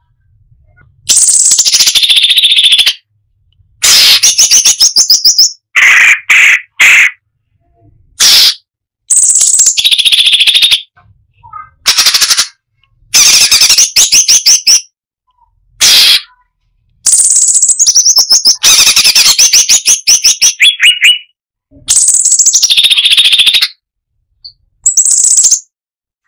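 Cucak cungkok songbird singing loud, dense phrases of rapid repeated notes and trills. The phrases come in bursts about one to four seconds long, each cut off abruptly into dead silence, as in an edited bird-mastering recording.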